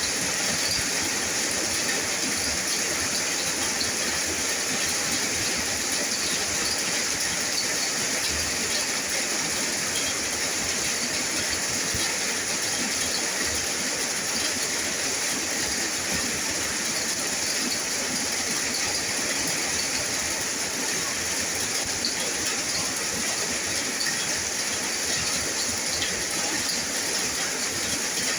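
Steady heavy rain: an even hiss of falling water, with no change in strength, and faint scattered drop ticks.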